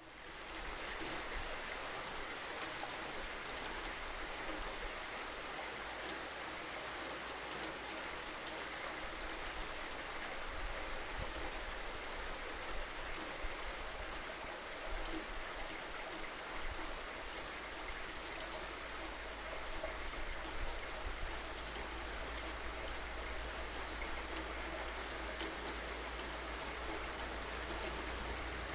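Steady rainfall, an even hiss of drops on surfaces with a few slightly louder patters now and then.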